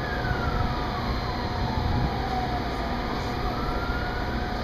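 Steady rumble and hum of a Metra commuter train standing at the platform with its engine and onboard equipment running. A siren-like wail falls in pitch over the first three seconds and starts rising again near the end.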